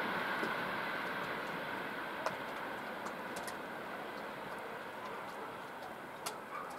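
Passenger train rolling away on the rails, a steady rumble slowly fading as it recedes, with a few sharp clicks, the loudest about two seconds in.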